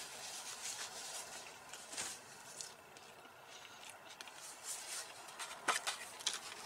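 Faint sounds of a person chewing a mouthful of soft taco, with scattered small clicks and rustles. Near the end, a few sharper rustles as the taco is handled over a paper plate.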